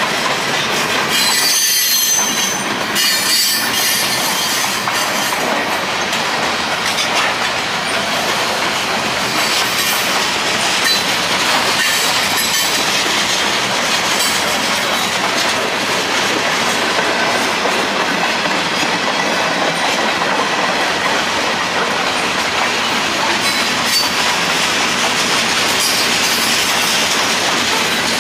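Norfolk Southern mixed freight train's cars (boxcars, tank cars and covered hoppers) rolling past steadily, a continuous loud noise of steel wheels on rail and rattling car bodies.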